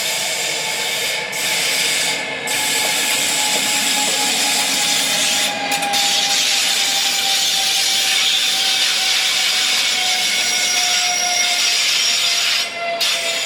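Railway wheels squealing and grinding against the rails as a train passes, a loud rubbing screech with several high whistling tones and one tone slowly falling in pitch throughout. The hiss drops out briefly a few times.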